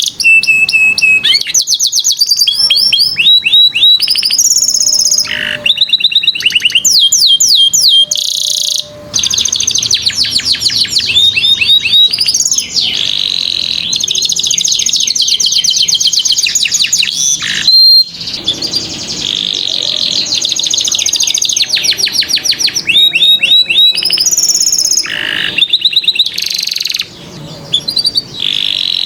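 Domestic canary singing a long, loud song of fast, high-pitched repeated trills and rolls, broken by short pauses.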